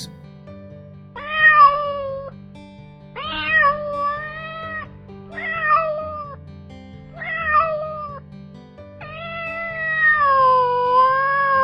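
Domestic cat meowing five times, with pauses between calls; the last meow is the longest, drawn out and wavering in pitch. Soft background music plays underneath.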